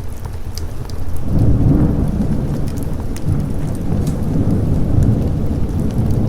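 Rolling thunder, a deep rumble swelling about a second in and rumbling on, over steady rain with scattered sharp drop ticks.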